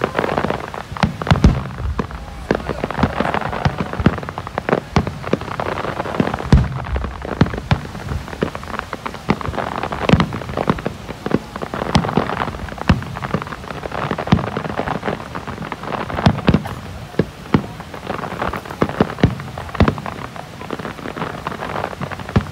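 Fireworks finale barrage: shell bursts going off one after another, with a dense crackle of many small sharp pops between them.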